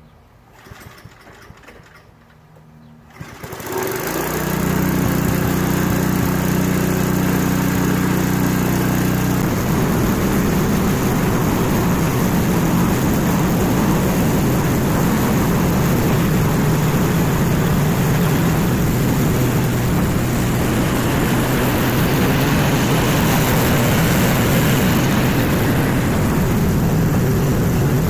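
Craftsman snowblower's small engine starting up about three and a half seconds in and idling evenly, then running at a higher, busier speed from about ten seconds in. It runs smoothly after being freed from a seized state.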